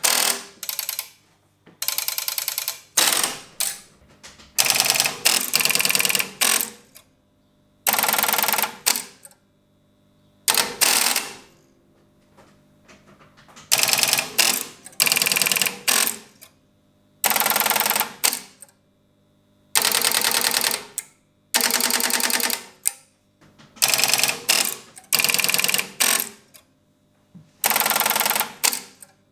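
Electromechanical Strowger telephone exchange switches stepping: repeated bursts of rapid mechanical clicking, each about a second long, with short pauses between them.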